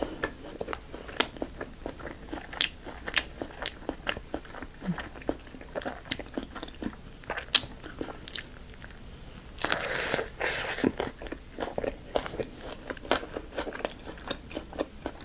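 Close-miked eating of Burger King fast food: crisp crunching bites and chewing, many sharp crunches in irregular succession, with a louder, denser stretch of crunching about ten seconds in.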